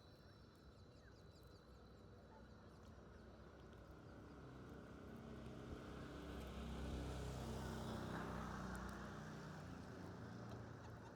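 A motor vehicle passing: a low engine hum swells to its loudest about seven to eight seconds in and then eases off. A few faint high chirps come near the start.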